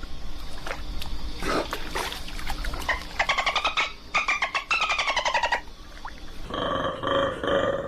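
An animal calling: two rapid, rattling trills of about a second each, then three shorter calls near the end, with scattered clicks before them.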